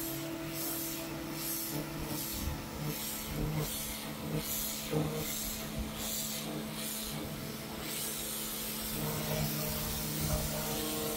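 Pressure washer running and spraying the patio paving: a steady motor hum under a hiss of spray that pulses about twice a second for the first eight seconds or so, then evens out.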